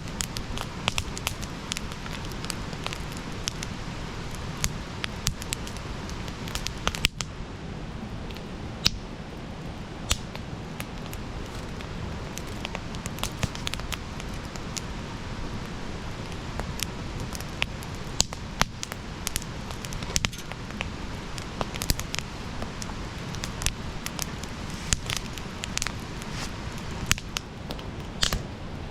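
Wood fire burning: a steady low rush of flames with irregular sharp crackles and pops, a few louder snaps scattered throughout.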